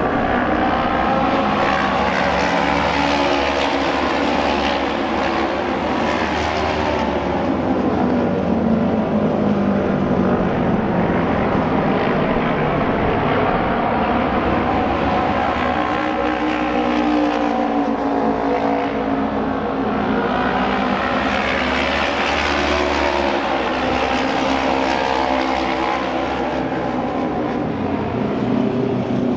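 A pack of Japanese auto race motorcycles running at full throttle round an oval track, their 600cc twin-cylinder engines howling together. The pitch of the pack rises and falls in long sweeps as the bikes come round.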